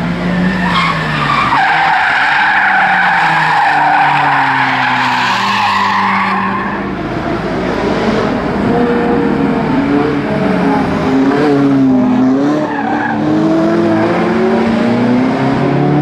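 Course-opening car at a hill climb, its tyres squealing hard through a bend for the first six seconds over the engine note. The engine then pulls away, its pitch dipping and rising with throttle and climbing steadily near the end as it accelerates.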